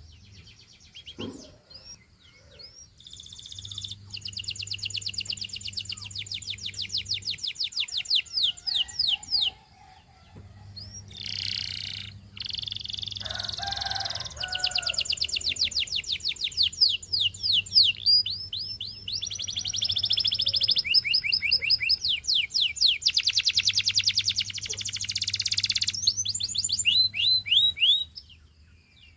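Domestic canary singing long, rapid trills and rolls in several phrases, with brief breaks between them.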